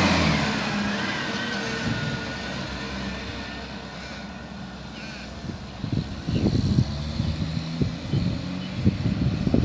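Garbage truck engine fading steadily as the truck moves away. Irregular low rumbling thumps take over in the second half.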